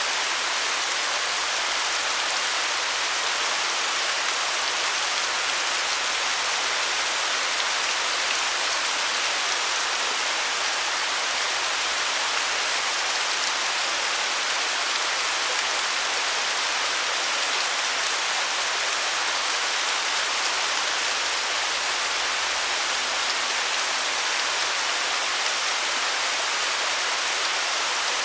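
Waterfall: falling water rushing steadily, a dense hiss with little low rumble.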